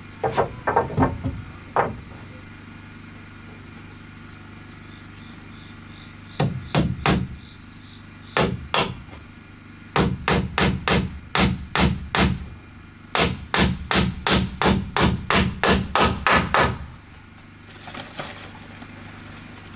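A hammer striking wood in runs of quick blows, about three a second, with pauses between runs. The longest runs come in the second half.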